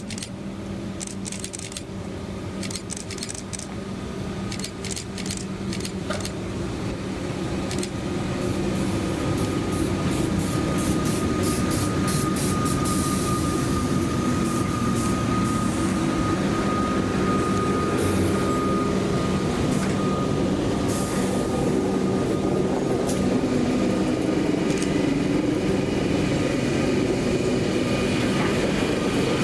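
Rail inspection train approaching and running past, growing louder over the first ten seconds and then holding steady, with a steady high whine through the middle and light clicking early on.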